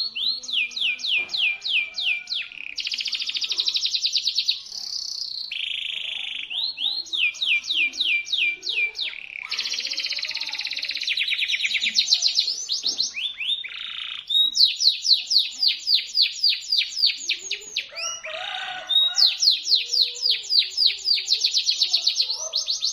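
Domestic canary in full, loud song: phrase after phrase of high, sharp trills, with strings of quick falling notes alternating with very fast rolls and brief pauses between phrases.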